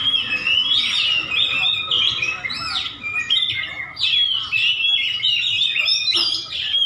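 Oriental magpie-robin (white-breasted kacer) singing a fast, unbroken run of varied chirps and short whistled notes, some rising and falling in pitch.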